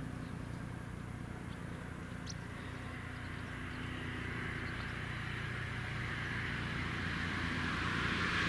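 BK 117 C1 twin-turbine helicopter approaching, its turbine whine and rotor noise growing steadily louder over a low steady hum.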